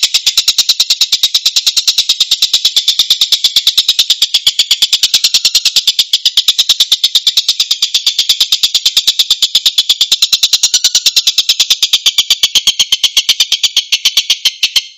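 A tengkek bird's harsh, rapid call: a fast, even train of rasping notes, about ten a second, with no break. It cuts off suddenly at the end.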